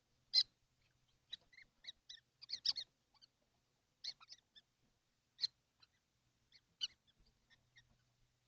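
Kestrels in a nest box giving short, high, squeaky calls at irregular intervals, the loudest about half a second in, over a faint steady low hum.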